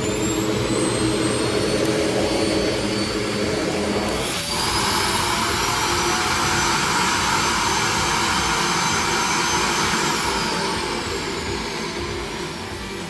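Vacuum cleaner motor running at full speed with a high whine. About four seconds in, the sound changes abruptly to a brighter, hissier rush. From about ten seconds in, the whine falls as the motor winds down.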